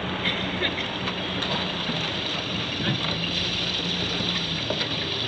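Steady rushing hiss of water and spray around a small boat on the sea, with a low steady hum underneath and a few light ticks.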